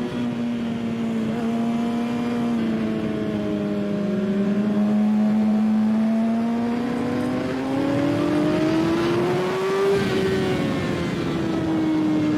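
Kawasaki ZX-6R inline-four engine at high revs under a rushing wind noise: the engine note sags a little, climbs steadily to a peak about ten seconds in, then drops away as the throttle eases.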